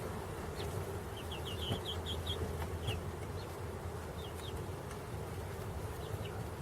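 Chickens giving short, high peeps: a quick run of about six near two seconds in, then scattered single peeps, over a faint, steady buzzing hum.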